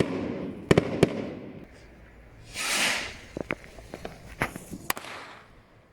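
Fireworks exploding: three sharp bangs in the first second, each echoing away, then a short hiss a little after two seconds in and several smaller cracks.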